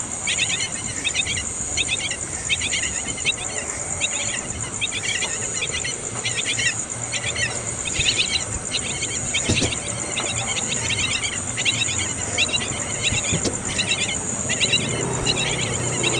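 Young birds chirping: short bursts of rapid high chirps, about one burst a second, over a steady high-pitched insect drone.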